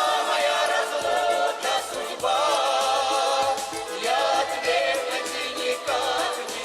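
Several voices singing a Russian folk song together in long held notes that waver in pitch, with musical accompaniment.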